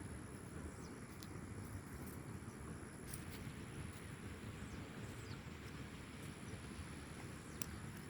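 Faint outdoor ambience: a low steady rumble with a thin, steady high-pitched tone and a few faint ticks.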